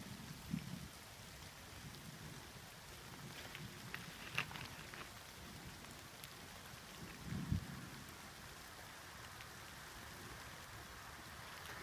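Light rain falling steadily, with scattered louder drops ticking close by; the sharpest is about four seconds in. Brief low thuds come at about half a second and again at about seven and a half seconds.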